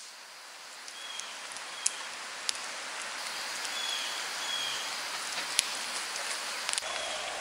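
Light rain falling on a forest camp: a steady patter that slowly grows louder, with a few sharp drip ticks and some short, high chirps.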